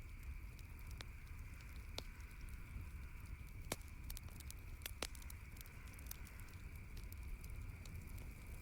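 Campfire crackling: irregular sharp snaps and pops, a few louder than the rest, over a steady soft hiss.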